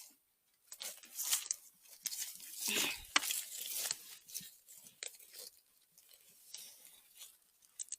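Irregular crunching and rustling of dry forest-floor litter and undergrowth being disturbed, loudest in the first half, then softer scattered rustles.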